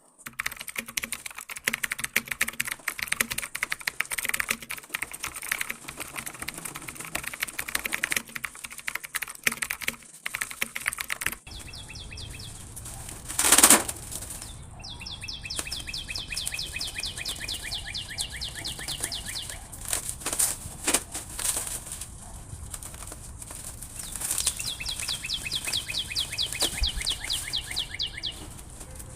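Packaging being handled and opened: dense crinkling and crackling, with one brief loud rustle about 14 seconds in. A canary then sings two long, rapid trills that slowly fall in pitch.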